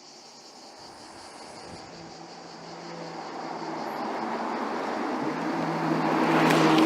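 Porsche Panamera 4S E-Hybrid Sport Turismo approaching at speed and passing close by: tyre and wind noise with a faint engine hum, growing steadily louder to a peak near the end, where it is cut off suddenly.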